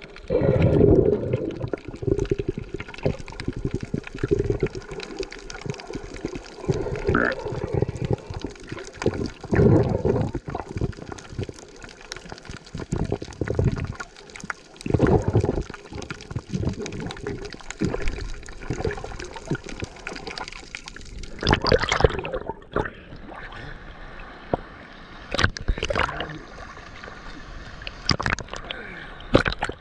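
Rushing water at a waterfall, the noise swelling and dropping unevenly, with a few sharp knocks in the second half.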